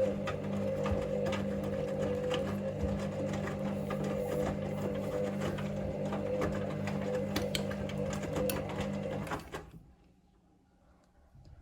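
Hoover Link washing machine's motor turning the drum during the main wash: a steady hum with small clicks and knocks, which cuts off suddenly near the end as the drum stops for a pause between tumbles.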